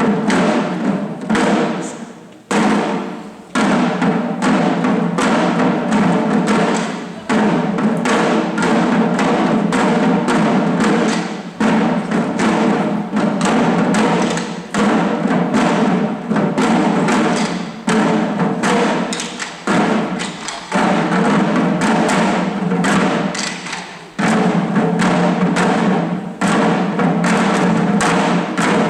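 Shishi odori deer dancers beating the taiko drums strapped to their bodies in a fast, continuous rhythm, with a brief break every few seconds.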